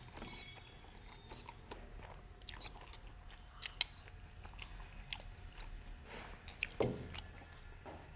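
Chewing from people eating momos in a hurry. Spoons click against the bowls several times.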